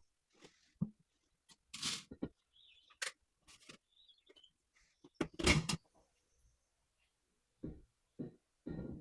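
Handling noises from taking a finished loaf out of a bread machine: scattered clicks, clatters and rattles, the loudest about halfway through, then three dull knocks near the end.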